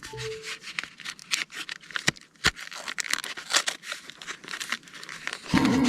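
Packaging of a box of sticky notes being cut and torn open with scissors: an uneven run of crackles, snips and rips, the packaging proving hard to open.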